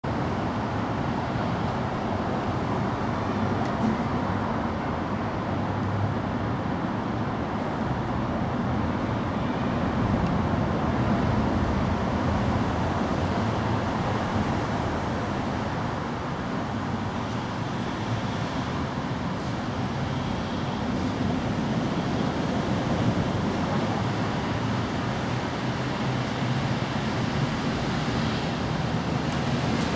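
Steady rushing background noise with a faint high-pitched hum running through it and a few faint light ticks.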